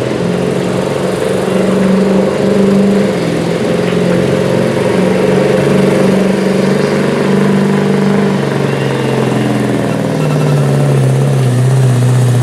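Chevy street diesel pickup truck pulling the sled down the track, its engine running loud and continuous with the pitch stepping up and down, then dropping lower over the last couple of seconds.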